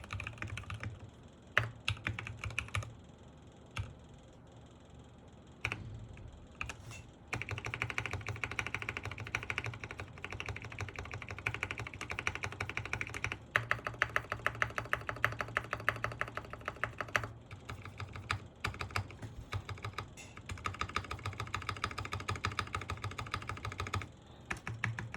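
Typing on a Sky87 mechanical keyboard with Gateron Pro Milky Yellow switches: quick runs of keystrokes, sparse for a few seconds near the start, then dense and fast.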